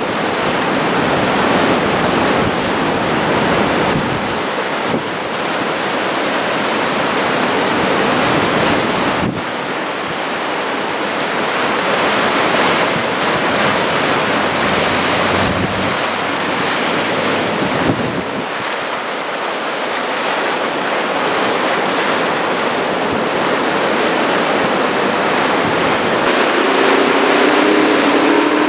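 Surf from a typhoon-driven swell of head-high waves breaking, a steady wash of noise with wind buffeting the microphone. Near the end a motor vehicle's engine comes in.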